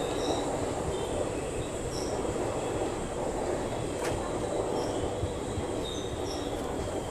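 Passenger coach of the Wodeyar Superfast Express running on the rails, heard from on board as a steady rumble of wheels and coach, with faint short high squeals now and then and a single sharp click about four seconds in.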